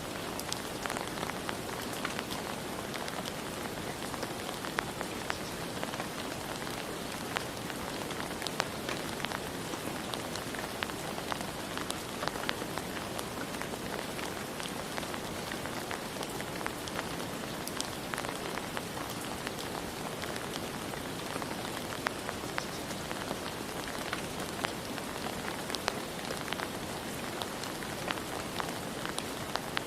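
Steady rain falling, an even hiss with many separate drops ticking on a hard surface.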